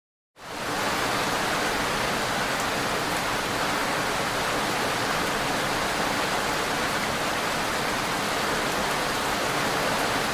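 Steady heavy rain, an even hiss that fades in at the start and holds at a constant level.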